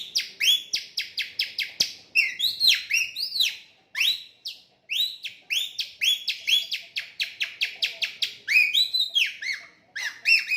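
Rapid whistled chirps, three to five a second, mostly arched rising-and-falling notes broken by a couple of short pauses, imitating a murai songbird's song by sucking air through a thinly stretched scrap of plastic shopping bag held against the lips.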